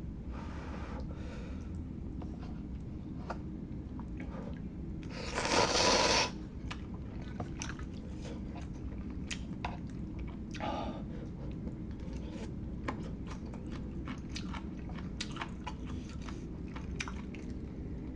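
Close-miked chewing and biting of instant hot pot food, with many small clicks and crunches. About five seconds in comes a louder rush of noise lasting about a second.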